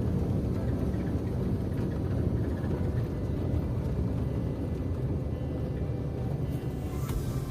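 Vehicle engine and road noise as a steady low rumble while driving up a steep mountain road.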